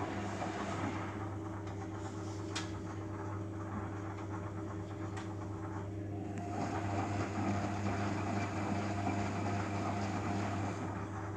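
Beko WMA 1510 washing machine running through its rinse: the drum motor hums steadily as the drum turns, with a couple of sharp ticks, and a higher tone joins about halfway through. The rinse is running with no cold water let in, which the owner takes for a fault.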